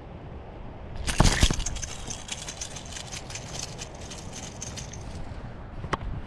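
Wind rumbling on the microphone, with a loud clatter about a second in, a few seconds of crackling after it, and a single sharp click near the end.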